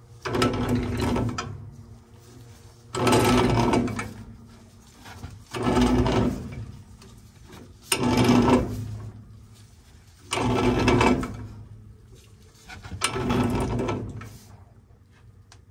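Threaded black-iron pipe fitting being tightened onto doped threads with a pipe wrench: six rasping strokes, each about a second long, about every two and a half seconds.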